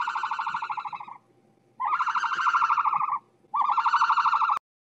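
Three long, fast-pulsing trilling calls, played as the sound of an ostrich; the last one cuts off suddenly.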